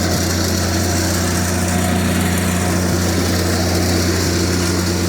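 An engine running steadily at one constant speed: a loud, even, low hum with no change in pitch.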